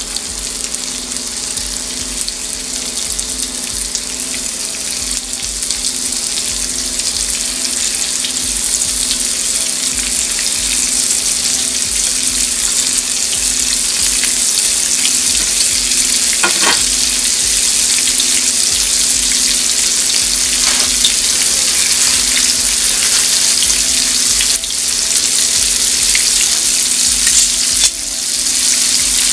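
Shrimp searing in melted butter and oil in a skillet: a steady frying sizzle with fine scattered pops, growing gradually louder.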